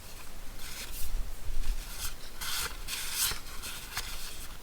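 Small pieces of paper being handled and slid against one another: a series of short rustles and rubs.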